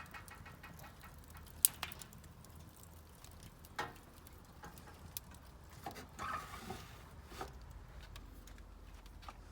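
Fire crackling, with sharp irregular pops; the loudest pop comes a little under two seconds in.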